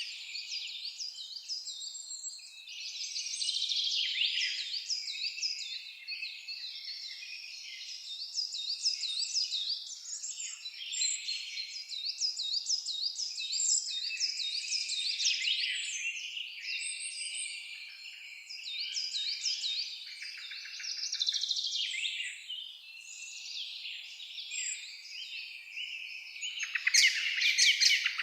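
Dense chorus of several songbirds singing and chirping at once, with many quick repeated down-slurred notes overlapping. A louder, sharper bird call comes near the end.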